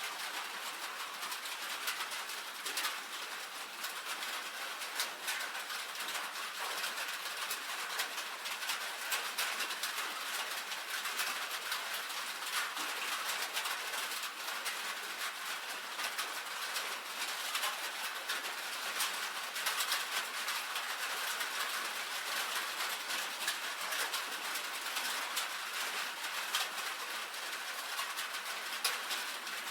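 Rain drumming on a tin roof: a steady, dense patter of drops with many sharp individual taps over a bright hiss.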